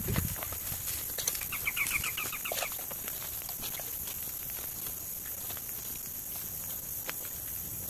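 A bird's short, rapid chattering call, about a second long, starting about a second and a half in, over scattered light clicks and a faint steady high hiss.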